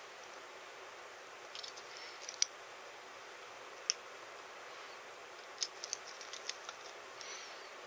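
Small parts being handled and fitted: scattered light clicks and taps, some in quick little clusters, over a steady hiss, with a few faint high chirps.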